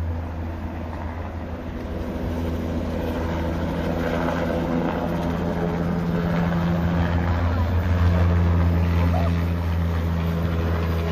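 Helicopter running steadily in flight: a constant low drone of rotor and engine with a steady deep hum, swelling a little about two-thirds through.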